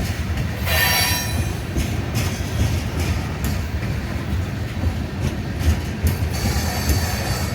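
Union Pacific coal train cars rolling by with a steady low rumble. Wheel flanges squeal on the rails briefly about a second in, and again, higher, near the end.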